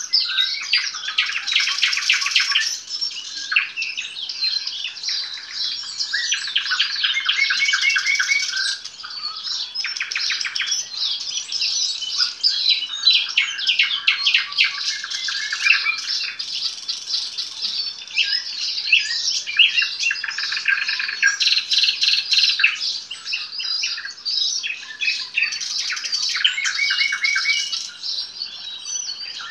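Nightingale singing: a run of varied song phrases, many of them fast trills and rapid strings of repeated notes, with brief pauses between phrases.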